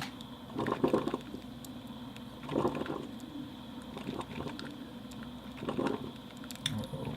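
Single-cup drip coffee maker brewing: hot water gurgling and sputtering in a few short bursts, about a second in, near three seconds and again near six seconds.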